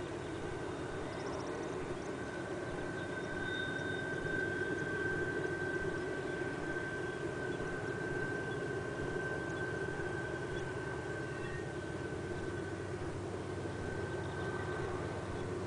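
Distant diesel-electric locomotives of a BNSF double-stack freight, GE Evolution and Dash 9 units, working hard upgrade: a steady engine drone with a high whine held over it.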